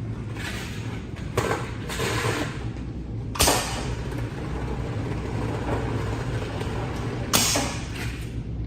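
Aluminium flexible duct end-shrinking machine running: a steady low motor hum with three sharp clanks, about a second and a half in, about three and a half seconds in and near the end, and short bursts of hissing noise between them.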